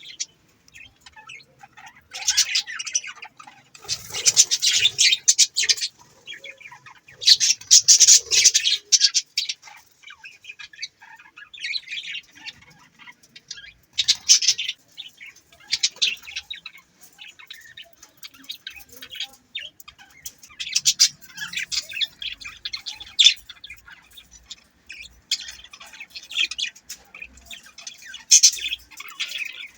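Budgerigars chirping and chattering in rapid, high bursts, with louder bouts of chatter now and then.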